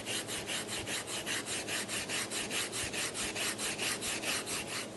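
Brillo steel-wool pad, wet with cola, scrubbing a car dome light in rapid, even back-and-forth strokes, about five a second.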